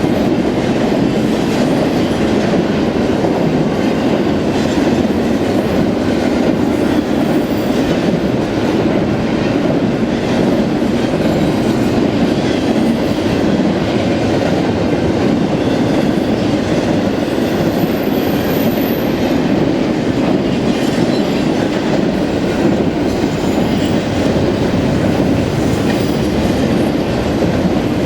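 Freight train cars rolling past in a steady rumble of steel wheels on rail, with a continuous clickety-clack of wheels over the rail joints.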